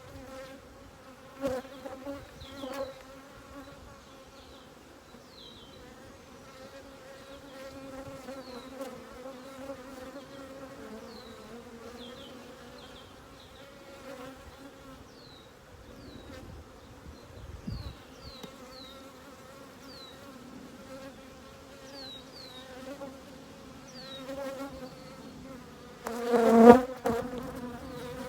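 Honeybee colony buzzing in a steady hum around an open hive, with a few knocks as the hive frames are put back, the loudest clatter near the end.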